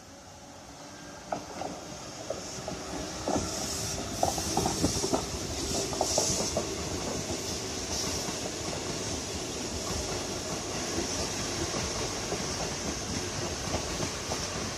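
Keikyu Series 800 electric commuter train running past, its wheels clicking over rail joints with a high hiss. It grows louder over the first few seconds as it approaches, then runs on steadily.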